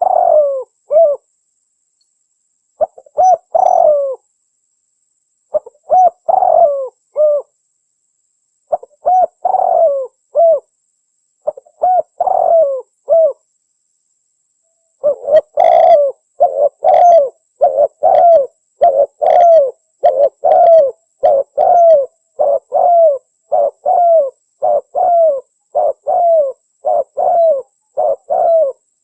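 Spotted dove (tekukur) cooing in a lure-call recording. It starts with short coo phrases about every three seconds, then about halfway in breaks into a quicker, unbroken run of coos.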